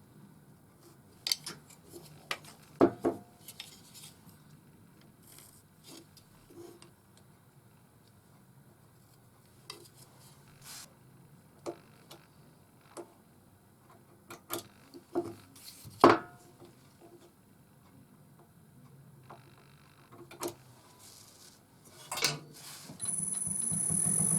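Scattered knocks and metal clinks of a wood blank and tools being handled and fitted between lathe centres, the loudest knock about 16 seconds in. Near the end a wood lathe's motor switches on and runs with a steady hum and a high whine.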